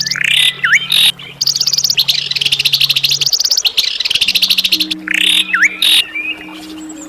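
Songbird singing harsh, rapid rattling runs of repeated high notes, broken twice by a rising sweep with a quick down-and-up whistle, over a low steady hum.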